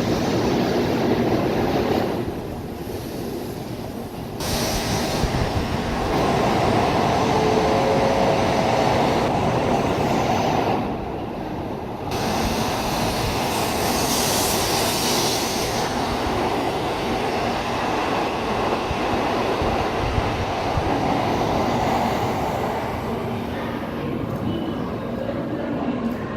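N700 series Shinkansen train pulling slowly out of the station, its cars rolling past with continuous running noise from the wheels and motors. The level drops briefly twice, a couple of seconds in and again a little before the middle.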